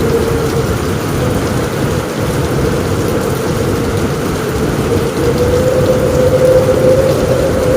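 Steady heavy rain on a roof with a deep rumble underneath and a steady mid-pitched drone through it, getting a little louder near the end.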